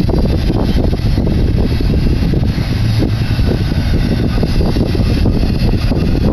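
Intermodal freight train of double-stack container cars and trailer flatcars rolling past close by: a loud, steady rumble of steel wheels on rail.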